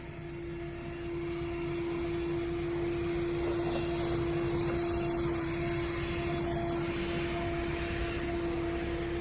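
A steady mechanical hum: one held, unchanging tone with a fainter higher tone above it, over a low rumble, growing a little louder about a second in.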